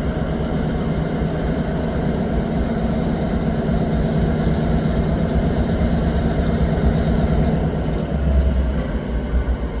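Freight train running: a steady engine drone with low rumble, and a thin high tone that dips slightly in pitch near the end.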